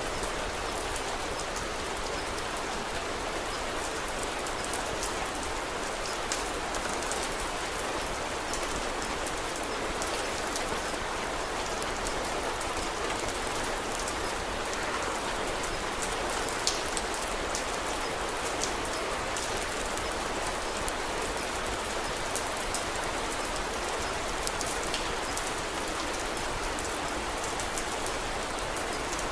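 Steady rain falling, with scattered sharp crackles from a wood fire.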